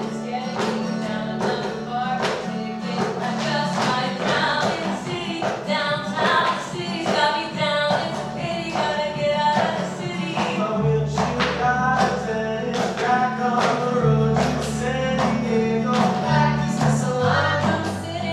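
Music: several voices singing together over a steady percussive beat and sustained bass notes.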